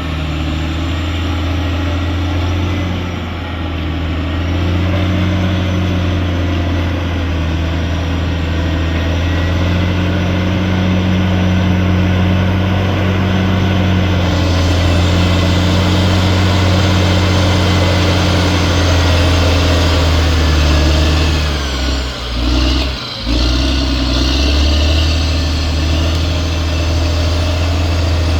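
Caterpillar D6R XL bulldozer's diesel engine running steadily at work, its sound dipping briefly twice about three-quarters of the way through.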